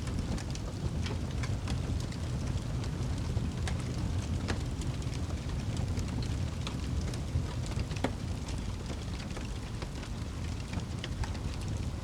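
Wood fire burning in a fireplace: a steady low rumble from the flames with frequent sharp crackles and pops, two louder pops about four and a half and eight seconds in.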